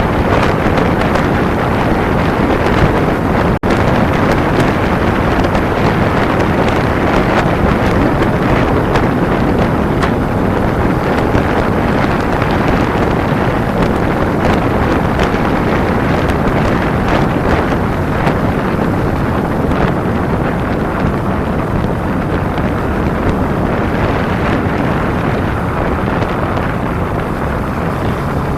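Wind rushing over the camera's microphone on a moving Kawasaki Ninja 250 motorcycle: a loud, steady roar of wind that buries the engine, with a brief dropout about three and a half seconds in.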